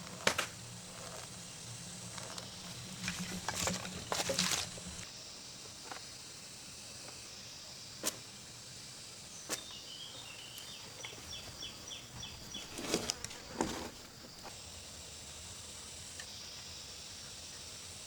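Forest ambience with a steady background hiss, broken by scattered knocks and clicks that bunch up twice. There is a short run of high chirps partway through.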